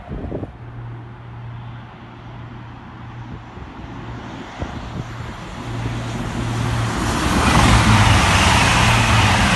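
Grand Central Class 180 diesel multiple unit passing through the station at speed, its rushing noise building to a peak about eight seconds in and starting to fade by the end, over a steady low drone.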